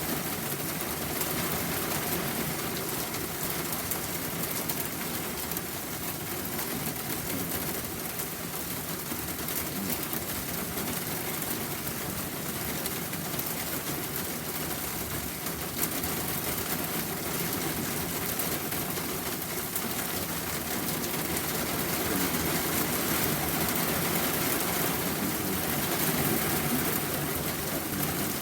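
Rain falling steadily, an even hiss that grows a little louder about three quarters of the way through.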